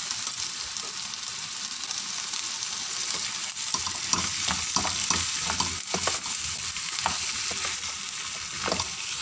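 Taro root and potato chunks sizzling in oil and masala in a kadhai, the steady frying hiss broken by a spatula scraping and turning them in repeated strokes, more often after the first few seconds.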